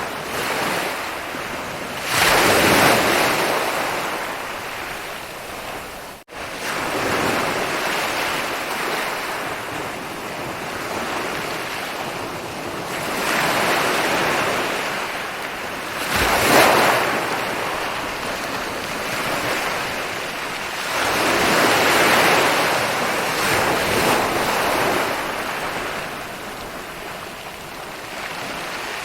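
Ocean waves breaking and rolling on a beach: a continuous wash of surf that swells with a louder crash every few seconds. The sound cuts out for an instant about six seconds in.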